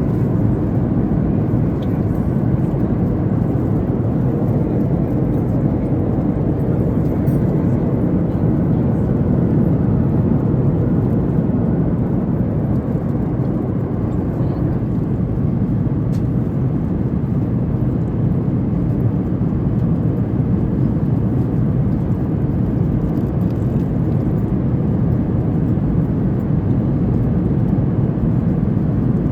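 Steady low rush of cabin noise inside a Boeing 737 MAX 8 in flight, airflow and engine noise with no changes.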